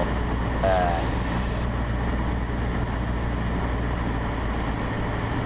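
Cessna 150's Continental O-200 four-cylinder engine and propeller running steadily on final approach, heard as a constant drone inside the small cockpit.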